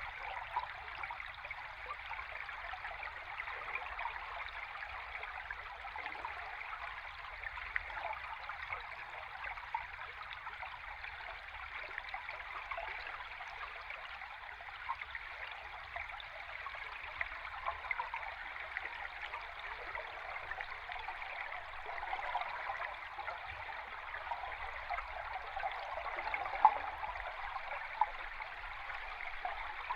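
Running stream water heard underwater: a steady rushing bubble with many small pops and ticks, and one sharper click near the end.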